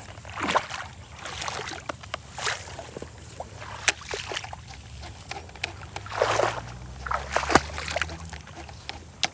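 Irregular splashing and sloshing of water, with scattered sharp clicks and knocks.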